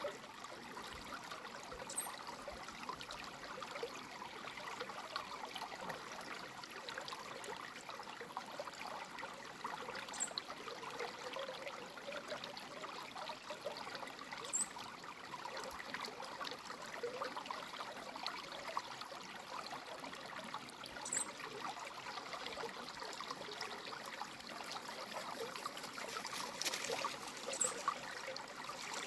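Creek water running and trickling steadily, with a few brief, faint high chirps.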